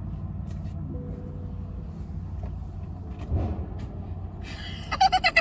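Car engine running with a steady low drone, heard from inside the cabin. A brief cluster of sharp sounds comes near the end.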